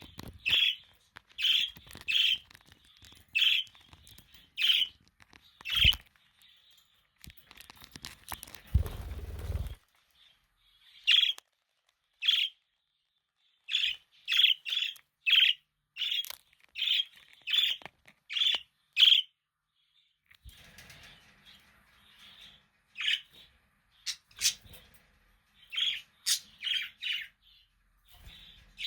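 Budgerigars chirping: short high chirps in quick irregular runs, with a pause of a few seconds near the middle broken by a brief low noise.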